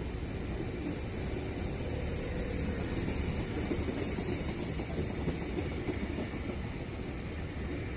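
A train running past: a steady low rumble of wheels on the track, with hiss swelling about halfway through.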